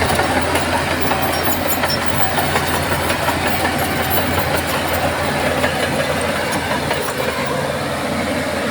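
Crawler bulldozer's diesel engine running steadily.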